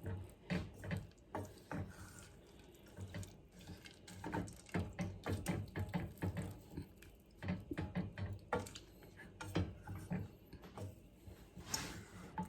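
Semi-sweet chocolate chips tipped into a pot of melting butter and stirred: an irregular run of small clicks and taps.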